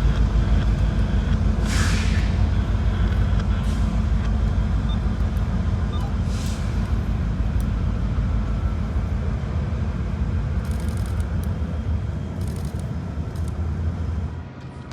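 Diesel locomotive engine rumbling steadily, with two short bursts of air hiss, about two seconds and six seconds in. The rumble slowly fades, then drops off suddenly near the end.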